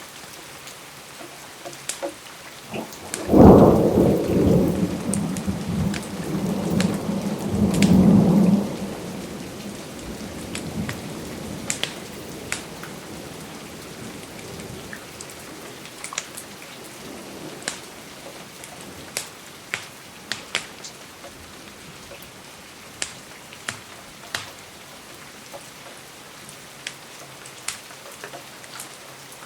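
Steady rain with a thunderclap breaking about three seconds in and rumbling on for about five seconds before fading. Scattered sharp clicks sound throughout.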